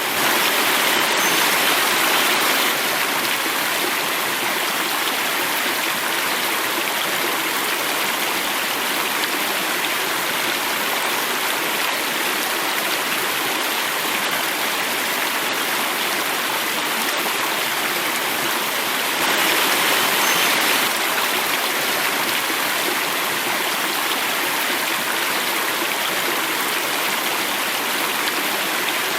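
Water flowing and falling in a stream cascade, a steady rushing hiss that swells slightly twice: near the start and about two-thirds of the way through.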